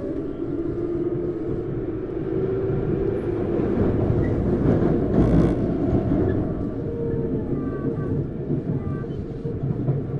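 Tokyu 9000 series electric train heard from inside a motor car while running, with steady wheel and rail rumble. Faint tones from its Hitachi GTO-VVVF traction inverter and motors come through the rumble. A louder rushing swell comes about five seconds in.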